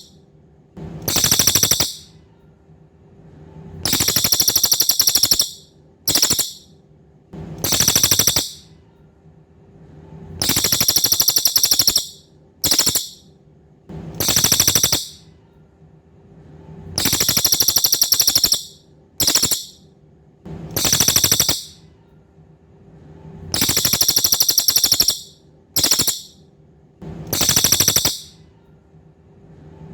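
A cililin songbird singing fast, high-pitched rattling trills. The trills come in a repeating cycle of a long phrase, a very short one and another long one, about every six to seven seconds.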